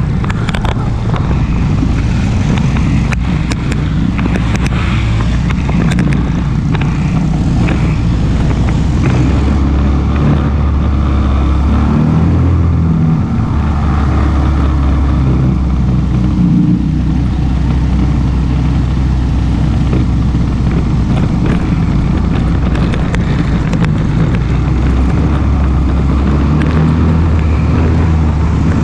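ATV engine running with a loud, steady low drone. Its pitch shifts briefly about twelve seconds in, and there are a few knocks in the first few seconds.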